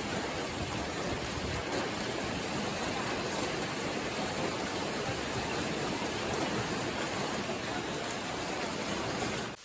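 Steady, even rushing noise of water, with no distinct impacts. It cuts off abruptly just before the end.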